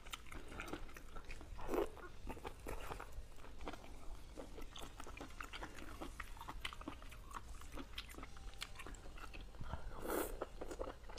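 Close-up wet chewing and sticky mouth clicks of eating octopus tentacle. There is a louder burst about two seconds in and another near the end as a piece of tentacle goes into the mouth.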